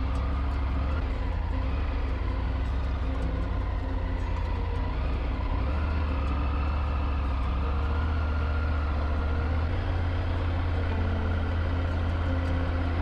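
Triumph Tiger 900 GT's three-cylinder engine running steadily under way, with road and wind noise. The engine note shifts about six seconds in and again near ten seconds.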